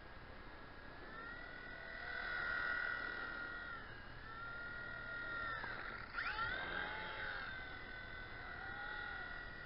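WLtoys V911 micro helicopter's small electric main and tail rotor motors whining in flight. The pitch rises and falls as the throttle changes, with a sharp dip and swoop about six seconds in.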